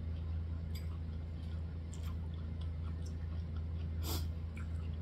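Chewing a mouthful of corn on the cob, close to the microphone: a few soft wet mouth clicks and smacks, the loudest about four seconds in, over a steady low hum.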